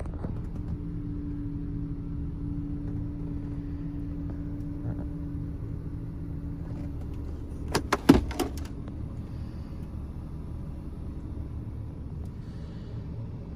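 A Suzuki Flair Wagon sits idling with a steady low rumble. A steady hum fades out about seven seconds in, and a quick run of sharp clunks follows about eight seconds in as a door, likely the sliding door, shuts and latches.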